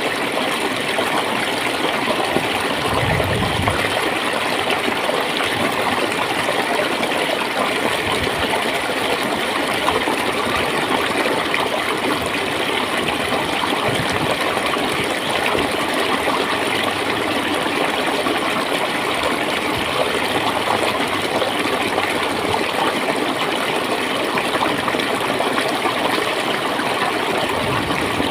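Clear stream water flowing and gurgling steadily, with a few low burbles.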